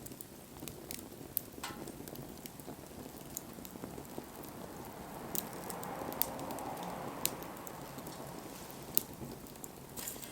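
Wood bonfire crackling, with scattered sharp pops over a steady hiss that swells for a few seconds in the middle.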